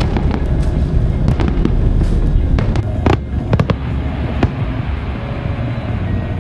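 Aerial fireworks bursting: a run of sharp bangs and crackles over a deep continuous rumble, thinning out after about four and a half seconds.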